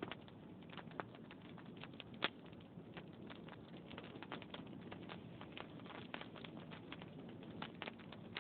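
Log fire crackling in a fireplace: a steady run of small irregular pops and snaps over a low steady background, with one louder pop a little over two seconds in.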